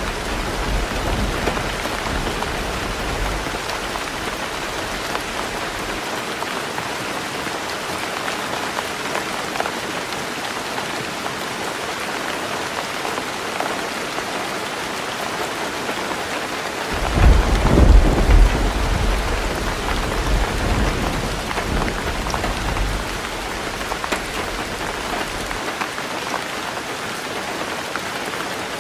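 Heavy rain falling steadily on a roof. A deep roll of thunder fades out in the first few seconds, and a louder one breaks about halfway through and rumbles away over several seconds.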